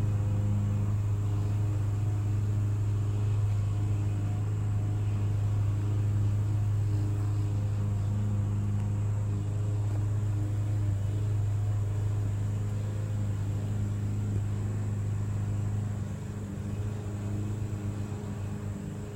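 Steady low hum with fainter evenly spaced tones above it, growing uneven and a little quieter about sixteen seconds in.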